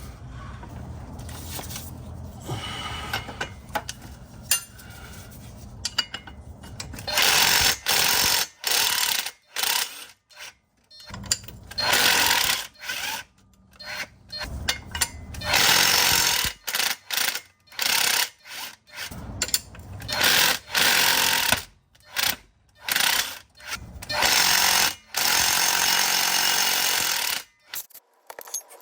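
Pneumatic wrench running in repeated bursts, undoing the bolts of the transmission flex disc. The bursts start about seven seconds in and come about a dozen times, each up to a couple of seconds long, with short pauses between them.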